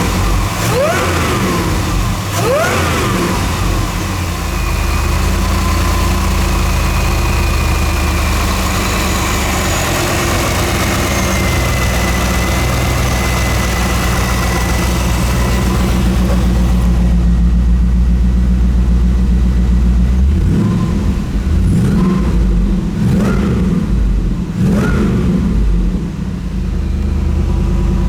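Supercharged 5.7L LS1 V8 of a 1999 Corvette with a Magnuson MP112 supercharger, blipped a few times, then idling steadily with a faint high whine over it. In the last third it is revved in a series of short, quick blips.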